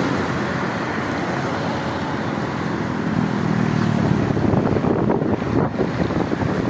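Road traffic noise, a steady rumble of passing vehicles, with wind buffeting the microphone from about four seconds in.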